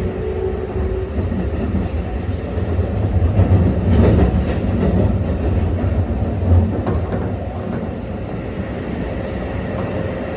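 Keikyu 600 series electric train with a Mitsubishi GTO VVVF inverter running, heard from inside the car: steady low wheel-and-rail rumble with traction motor and inverter tones, one of which fades away about a second in.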